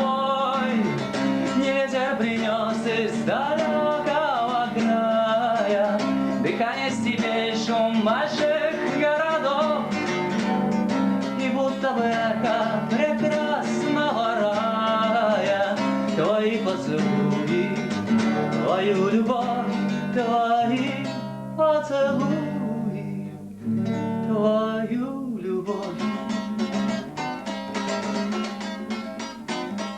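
Acoustic guitar music with a gliding melody line over it and no sung words, getting quieter and sparser near the end.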